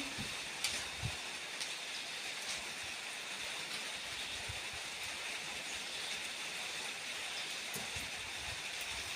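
Light rain falling steadily as a fine drizzle, a soft even hiss with a few faint ticks of drops.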